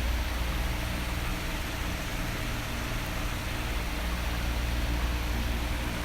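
Electric fan running steadily: an even rush of blown air with a low, steady motor hum underneath.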